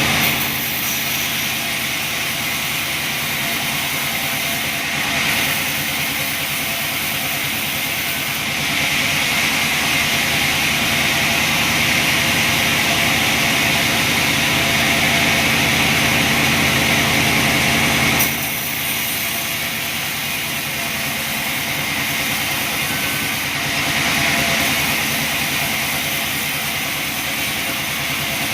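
Chainsaw engine running while sawing a log. It gets louder for about ten seconds in the middle, drops back suddenly about two-thirds of the way through, then swells again briefly near the end.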